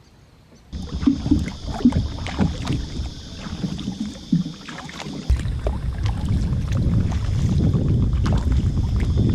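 Kayak being paddled: water splashing and short knocks of the paddle, over a steady rush of water and a low rumble of wind on the microphone that grows stronger about halfway through. It starts abruptly just under a second in.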